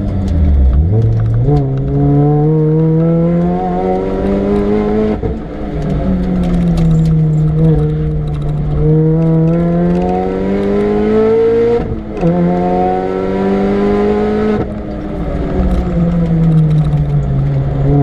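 Supercharged Mini Cooper R53's 1.6-litre four-cylinder engine under hard acceleration on track. The revs climb, drop sharply at an upshift about five seconds in, and sag as the driver lifts. They climb again through another quick shift about twelve seconds in, then fall near fifteen seconds as it lifts off again.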